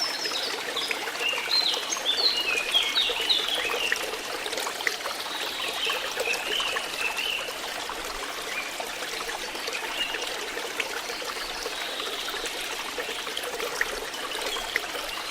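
Water flowing and trickling steadily, with clusters of short, high-pitched notes in the first few seconds and again briefly in the middle.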